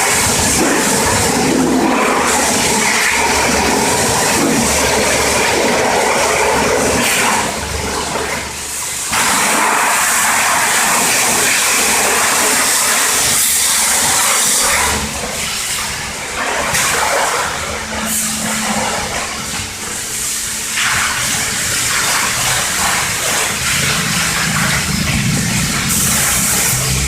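A jet of water spraying over the engine bay of a Daewoo Nexia, a steady loud hiss. It breaks off briefly about eight seconds in, and runs weaker and uneven for a stretch past the middle.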